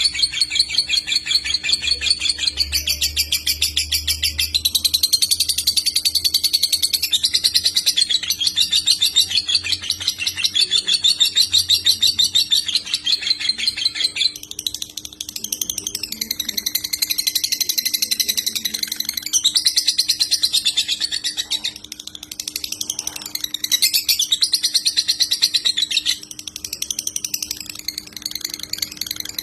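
Lovebird singing a long, very fast, almost unbroken chatter of high trilled notes, the 'konslet' style prized by Indonesian bird keepers, with a few short breaks where the phrase changes.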